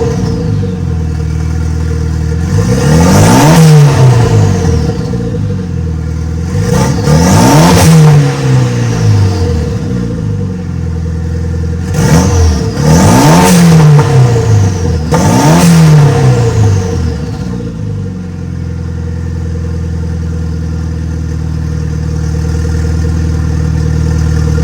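Renault Megane R26 2.0 turbo four-cylinder engine, swapped into a Clio, revved hard about five times in quick blips to test the turbo boost. Each rev rises and falls back, and from about three quarters of the way in it settles into a steady idle.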